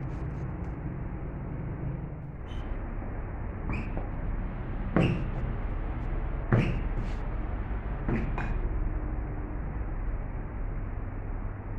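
Steady low vehicle rumble with several short, sharp sounds that drop quickly in pitch; the loudest two come about five seconds in and a second and a half later.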